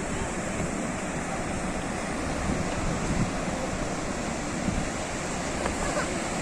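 Sea surf: waves washing on a shore in a steady, unbroken rush of water noise.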